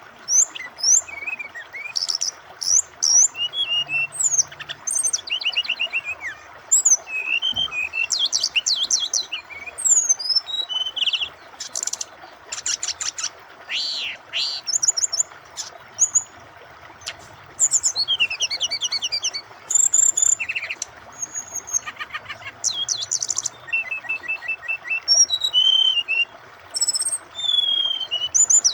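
Brown-chested jungle flycatcher singing a long string of varied phrases: fast trills, quick sweeping notes and clear whistles. Under it runs the steady rush of flowing water.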